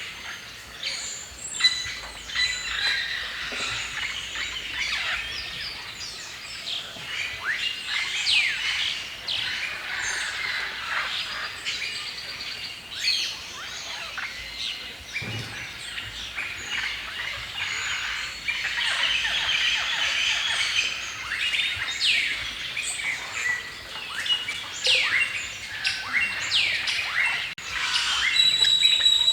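A chorus of several songbirds chirping and singing, many short overlapping calls and quick sweeping notes. Near the end, a louder, steadier high-pitched whistle comes in.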